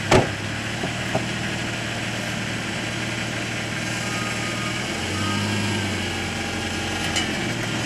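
Truck engine idling steadily, briefly a little louder about five seconds in, with a sharp knock right at the start.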